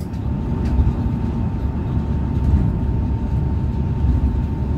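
Electric train running along the track: a steady low rumble of wheels on rails, with a faint steady high whine throughout.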